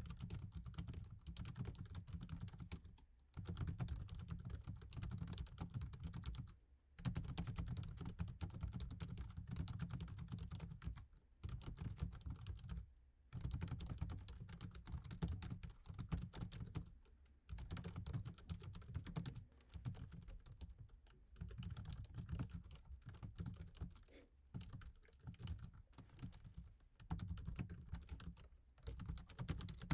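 Steady typing on a laptop keyboard: fast runs of soft key clicks, broken every few seconds by short pauses.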